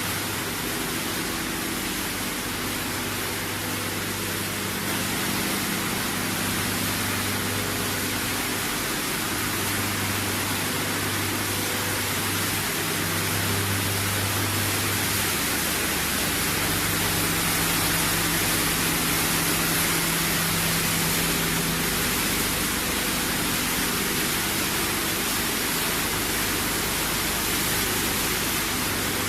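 PET bottle washing and recycling line machinery running: a steady wash of noise with low motor hums that change a little partway through.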